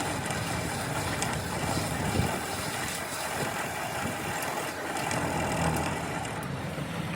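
A steady running engine, like a vehicle idling.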